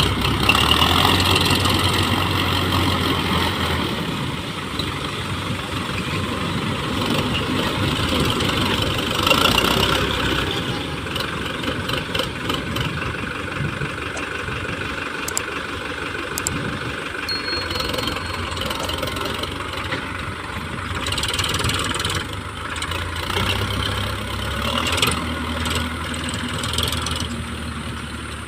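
Tractor's diesel engine running steadily, swelling a few times in level.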